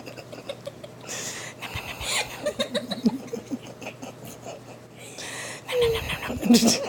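A girl giggling and laughing quietly in short breathy bursts, with sharper intakes of breath about a second in and near the end.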